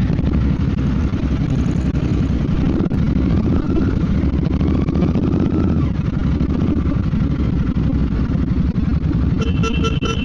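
Royal Enfield Bear 650's parallel-twin engine running steadily at low speed, with a dense low exhaust note and no hard revving.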